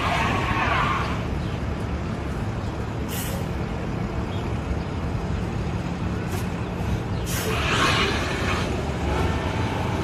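Vehicle engine running with a steady low rumble and hum, with a hissing burst at the start and another about seven to eight seconds in.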